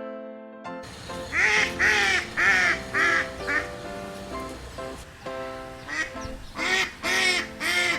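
Duck quacking in two runs of harsh calls, about two a second, over background piano music.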